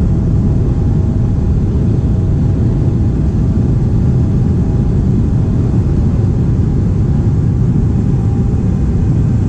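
Jet airliner cabin noise after takeoff: a steady, loud low rumble of engines and airflow, with faint steady tones above it.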